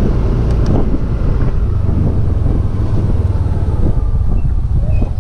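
Loud, steady low rumble of wind buffeting the camera microphone, mixed with a motor scooter's engine running.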